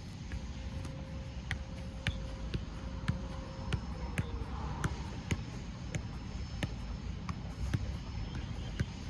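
Football touched and kicked over and over in quick solo ball work: sharp irregular knocks, about one to two a second, over a steady low rumble.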